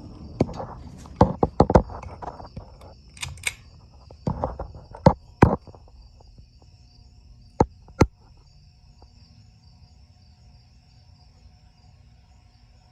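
Hampton Bay Huntington II ceiling fan being started: a run of clicks and knocks, including two sharp clicks about eight seconds in, as the motor comes on with a low steady hum from about six seconds in. This is the startup noise the fan makes.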